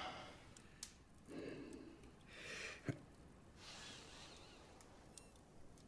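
Near silence: quiet room tone with a few faint breaths and a couple of soft clicks.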